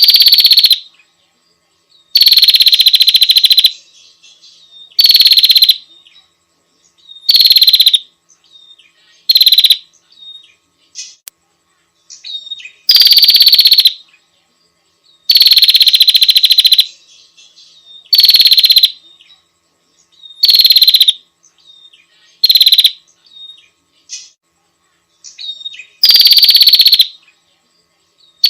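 Female prinia (prenjak) calling: a series of loud, rapid buzzing trills, each about one second long and repeated every couple of seconds, with faint short chips between them.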